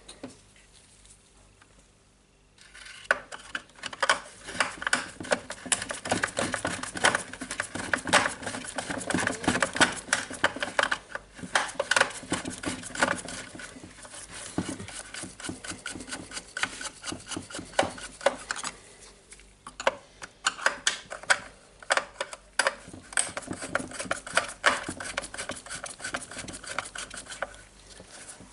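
Plastic housing and parts of a DeWalt work site radio being worked loose by hand during disassembly: dense clicking, scraping and rubbing that starts a couple of seconds in, with a short lull about two-thirds of the way through.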